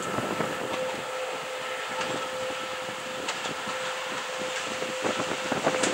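VL80S electric locomotive hauling a freight train as it approaches: the rumble of the train with a steady tonal hum over it, growing louder near the end.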